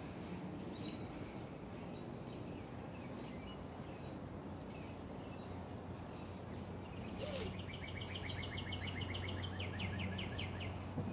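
Steady outdoor background noise with a low hum; about seven seconds in, a bird gives a fast trill of evenly spaced high chirps lasting about three seconds.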